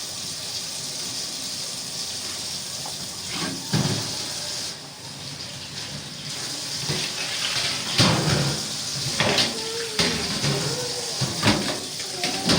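Water running from a tap into a sink, briefly weaker about five seconds in. From about seven seconds on there are several sharp knocks and clatters.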